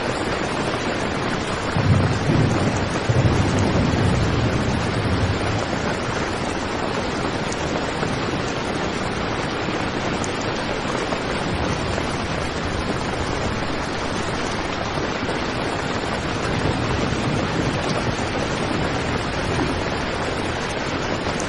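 Heavy rain drumming steadily on a tent, a dense even hiss. A low rumble swells about two seconds in and fades by about five seconds.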